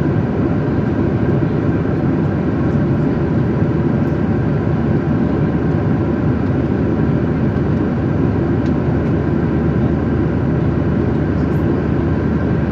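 Steady jet airliner cabin noise: an even, low rush of engine and airflow with faint steady tones above it, unchanging throughout.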